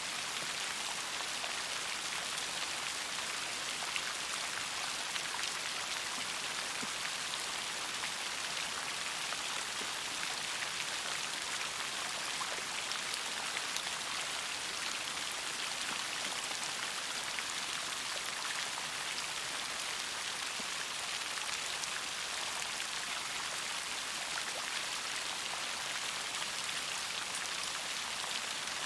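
Steady rain falling, a constant hiss with many small individual drops pattering on a surface.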